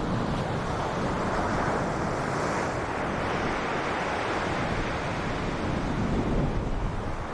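Ocean waves breaking on a beach, a continuous wash of surf that swells gently, with wind buffeting the microphone.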